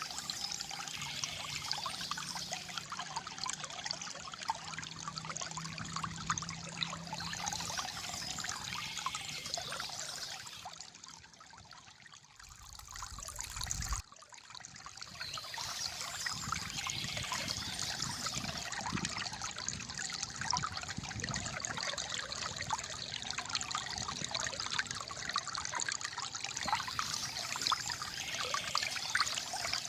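Calm flowing water trickling and gurgling steadily. It fades quieter for a few seconds around the middle, then comes back abruptly.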